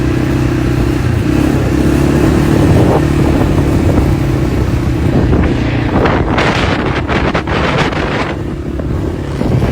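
Dirt bike engine running steadily, with a run of rough crackling noises for a few seconds past the middle.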